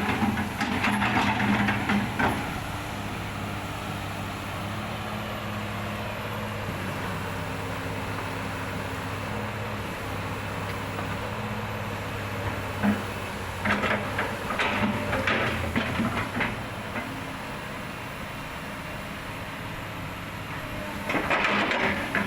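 A diesel engine running steadily, with bouts of metallic clattering and knocking near the start, around the middle and near the end.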